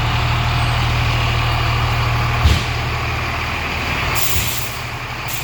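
Fire truck's engine running with a steady low hum, with one sharp knock about halfway through and short air-brake hisses near the end.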